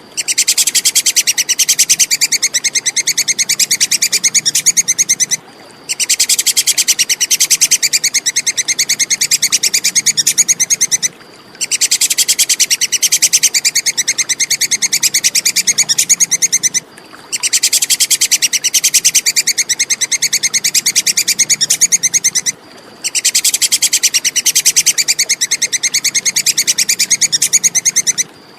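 Tupai kekes squirrel chattering: a fast run of shrill, sharp notes in bouts of about five and a half seconds, separated by half-second pauses.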